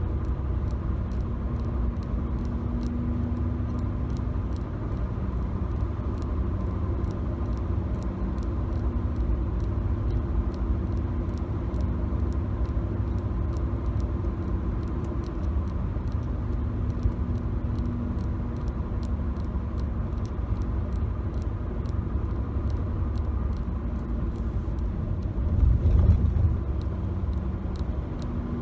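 Road and engine noise of a moving car heard from inside the cabin: a steady low rumble, swelling heavier for a moment near the end. Faint light ticks run through it.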